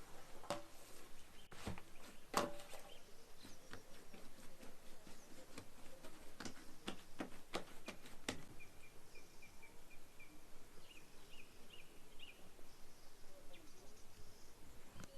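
A bird chirping a quick run of short high notes in the middle, then a second short run, among scattered clicks and knocks.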